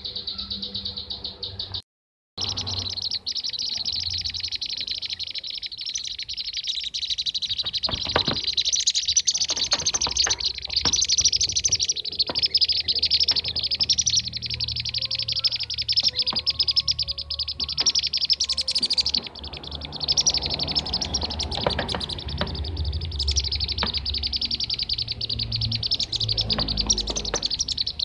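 Lure recording of kirik-kirik (bee-eater) calls, the kind used to train songbirds or draw in wild birds: a dense, fast run of high chirps. About two seconds in, the sound cuts out completely for half a second, then the chirping carries on.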